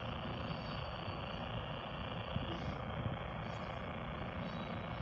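Covered grain hopper cars of a freight train rolling past: a steady rumble of wheels on the rails, with a couple of faint clacks a little past the middle.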